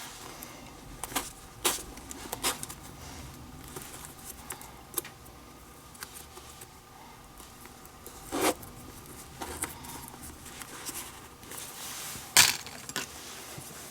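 Hand work relacing a leather baseball glove: irregular small clicks, taps and rustles as the leather lace and tools are handled, with a few sharper knocks, the loudest near the end.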